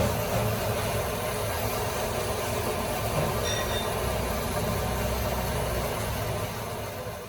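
Steady mechanical noise with a low rumble, like heavy machinery running, fading out near the end.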